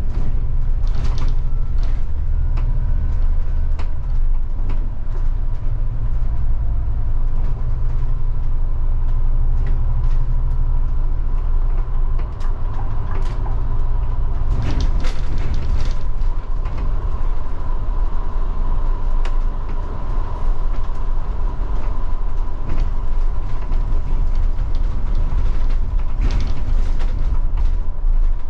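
Scania K250IB bus diesel engine running under way, heard from inside the bus, its low rumble shifting pitch a few times as speed and gears change, with a steady whine and scattered interior rattles and creaks.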